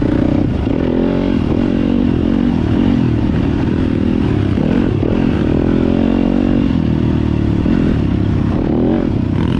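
Yamaha YZ250FX single-cylinder four-stroke dirt bike engine revving up and down continuously while riding a trail, with some clatter from the bike.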